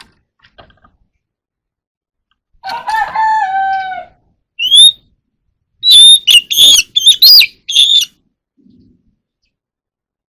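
Oriental magpie-robin singing: a rising whistle, then a quick run of sharp, high notes lasting about two seconds. Before it, a lower, falling, crow-like call of about a second and a half.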